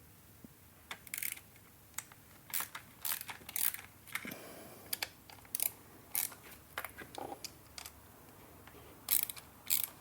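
Hand ratchet clicking in short irregular bursts as Torx screws are backed out.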